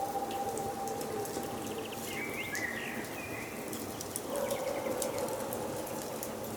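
Wood fire crackling and hissing, with short pops throughout, and forest birds calling over it. A bird gives a quick chirping call with fast up-and-down notes a couple of seconds in, and a lower, drawn-out call sounds near the start and again past the middle.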